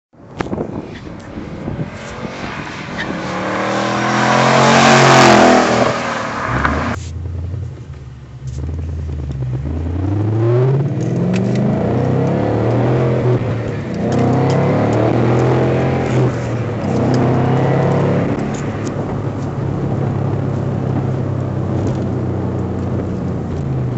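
2012 Mustang GT's 5.0 V8 running through a Flowmaster Hushpower cat-back exhaust. It accelerates past, loudest about five seconds in. Then it pulls away with its pitch climbing and falling back several times, as if through gear changes, before settling into a steady drone.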